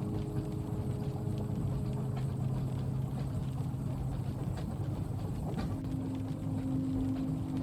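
Inside a moving train carriage: a steady low rumble of the train running, with a hum that changes pitch about six seconds in, and faint scattered ticks of rain on the window.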